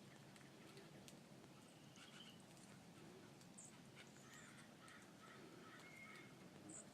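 Near silence with a few short, faint high bird calls.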